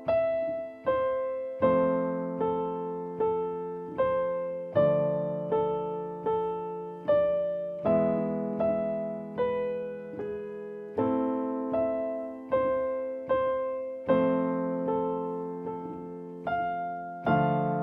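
Piano playing a simple improvisation in A minor: left-hand chords sustained and changing about every three seconds through the progression A minor, F major, D minor, E major, with a right-hand melody of single notes over them, a little more than one note a second.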